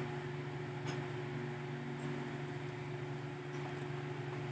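Steady low mechanical hum of a running appliance, with one faint click about a second in.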